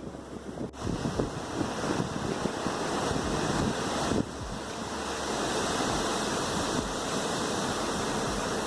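Wind buffeting the microphone over the rush of sea water along a moving ship's hull, a steady noise with a sudden break under a second in and a drop in level about four seconds in.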